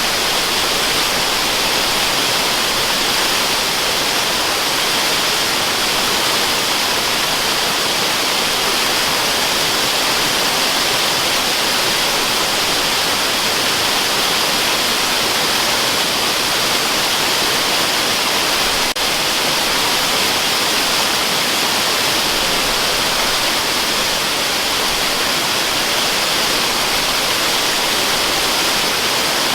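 Waterfall sound used as white noise: a steady, even rush of falling water, hissy and bright, with little deep rumble.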